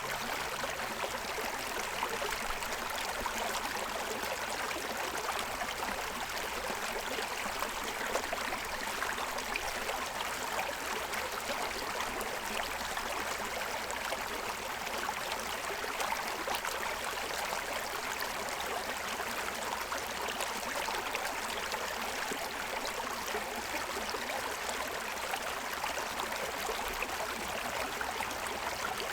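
Forest stream running steadily over the stones of its bed, a continuous even rush of water.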